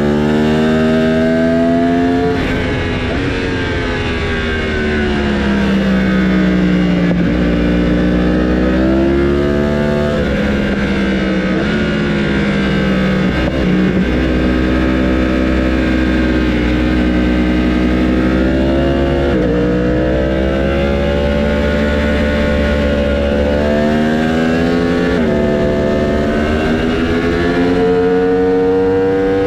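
Racing motorcycle engines running hard, several at once. Their pitch rises and falls over and over, with a few sudden drops.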